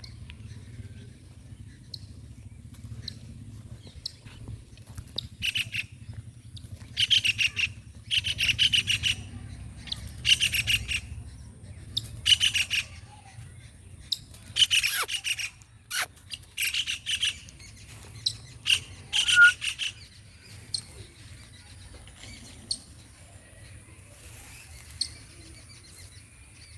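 Baby kingfisher calling in about ten short rattling bursts, each a rapid string of harsh notes, a second or two apart. The calling stops about twenty seconds in, leaving only scattered single ticks over a low steady rumble.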